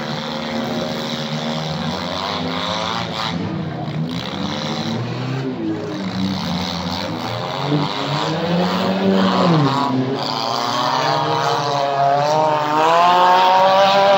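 Several demolition derby cars' engines revving at once, their pitches rising and falling, with one climbing in a long rev near the end as it gets louder.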